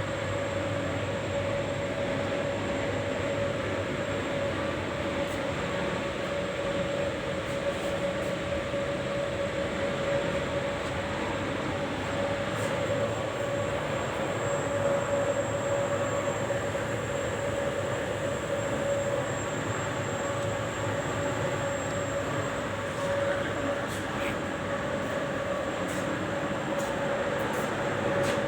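HVAC plant room machinery running steadily: an even rushing noise with a constant mid-pitched hum over it and a faint high whine.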